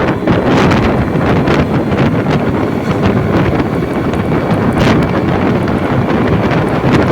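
Loud wind rushing over the microphone of a vehicle on the move, a steady roar with frequent short gusts of buffeting.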